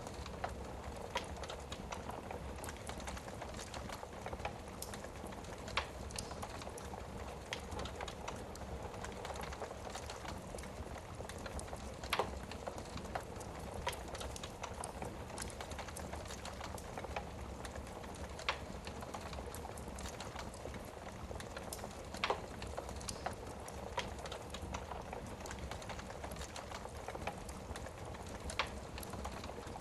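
Wood fire burning in a fireplace: a steady soft crackle with sharp pops every few seconds.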